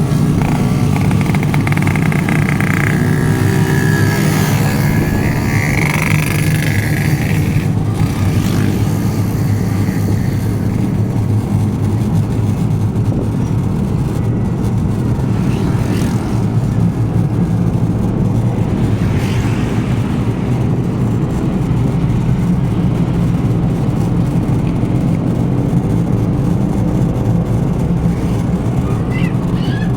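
Engine of an off-road vehicle running steadily under load on a trail.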